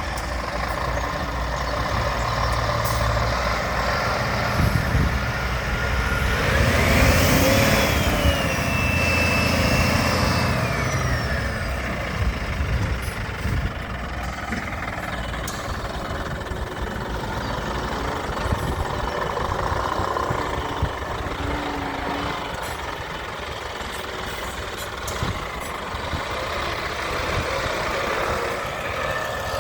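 Scania R450 truck's 13-litre straight-six diesel running at idle, a steady low drone, with a whine that climbs and then falls away between about six and eleven seconds in.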